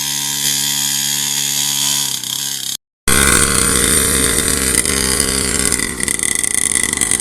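Small mini dirt bike engine running: a steady hum that sags slightly in pitch, then, after a brief cut about three seconds in, louder and rougher with the revs rising and falling.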